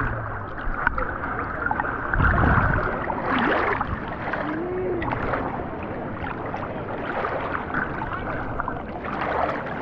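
Pool water sloshing and splashing close to the microphone, with a short low rumble about two seconds in and faint voices in the background.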